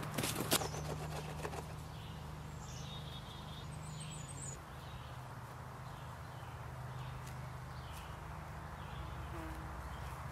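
Wild birds chirping in the background, short high chirps scattered through, over a faint steady low hum. A few sharp clicks in the first second or so.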